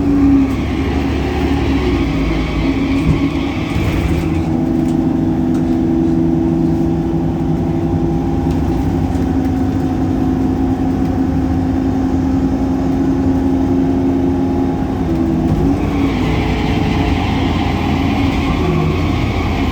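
Solaris Urbino 18 articulated bus's DAF Paccar PR265 diesel engine running with its loud belt noise, a steady drone whose pitch shifts slightly about four seconds in and again near fifteen seconds. A hiss comes in during the first four seconds and again near the end.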